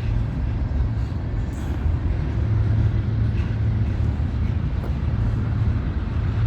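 Steady low engine rumble with a deep, constant hum.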